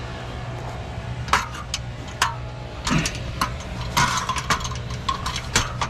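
Scattered light metallic clinks and clicks over a steady low hum.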